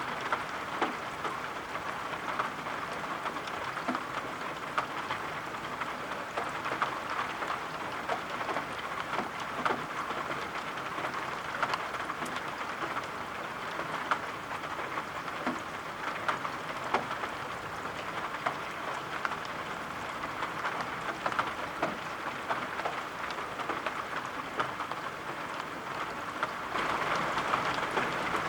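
Steady soft rain falling and pattering, with scattered sharper drop ticks through it; it swells slightly near the end.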